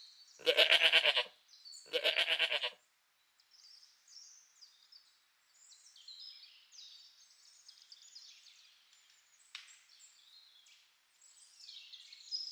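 Goat bleating twice in quick succession, each call a quavering bleat of under a second. Faint birds chirp in the background for the rest of the time.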